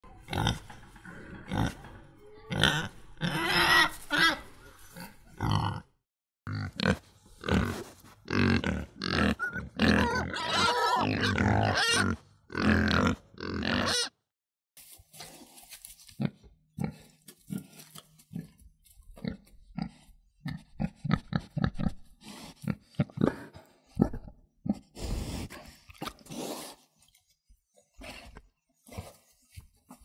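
Pigs grunting and oinking. For the first half the calls are loud and crowded, with some higher pitched squeals, and the sound changes abruptly twice. After that come softer, sparser short grunts.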